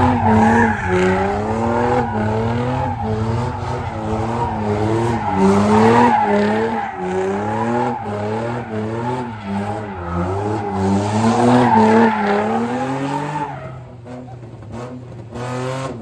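Car engine revving in quick, repeated rises and falls while the tires squeal and skid in a sideshow spin. It drops away about 13 seconds in.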